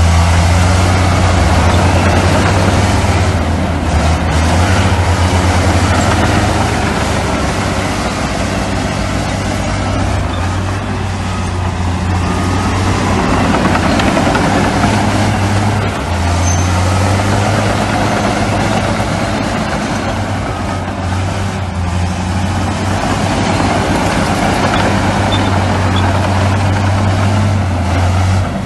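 Heavy diesel earthmoving machinery, bulldozers and dump trucks, running: a steady low engine drone under a wide rumbling noise, easing briefly about 4 and 16 seconds in.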